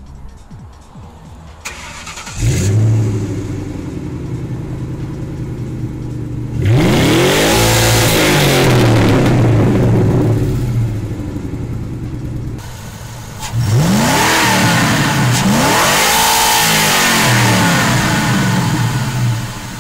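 A stock 2000 Ford Mustang GT's 4.6-litre single-overhead-cam V8 is started, catching with a flare about two seconds in. It settles to idle and is then revved in two spells, the engine note climbing and falling back each time, twice in quick succession in the second spell, before it returns to idle.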